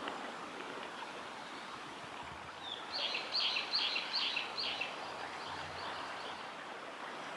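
A common kingfisher gives a quick series of about five shrill, high calls, about three a second, a few seconds in, trailing off into fainter ones, over a steady background hiss.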